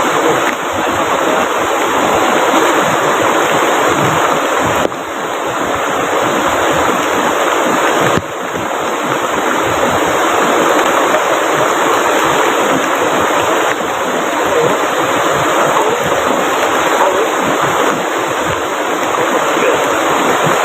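Steady, loud rush of heavy rainfall and river water, an even wash of noise with no single splash standing out. The level drops suddenly a few times in the first half and builds back each time.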